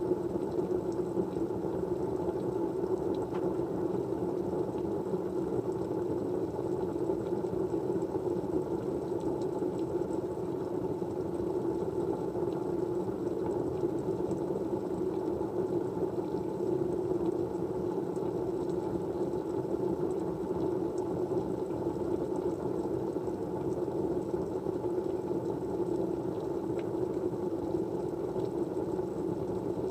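Steady white-noise-style background hiss with a low, even rush and no change in level. A few faint ticks sound over it now and then.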